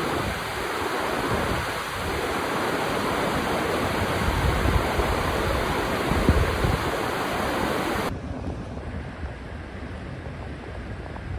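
Wind buffeting the microphone: a steady rushing hiss with uneven low rumbling gusts. About eight seconds in it cuts abruptly to a duller, quieter rumble.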